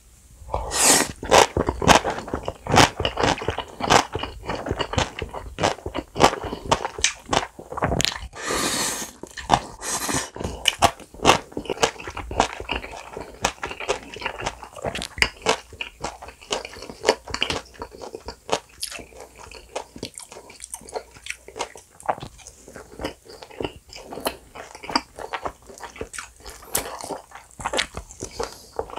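Close-miked mouth sounds of eating jajangmyeon with pickled yellow radish: crunching, wet chewing and lip smacks, a dense run of clicks that is loudest in the first half. A couple of longer hissing sounds come about a third of the way in.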